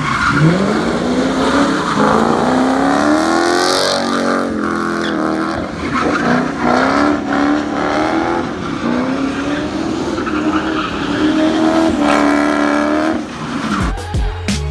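A drift car's engine revving hard in several long rising pulls, each climbing and then dropping back, while its tyres slide on wet asphalt. Music with a thumping beat comes in near the end.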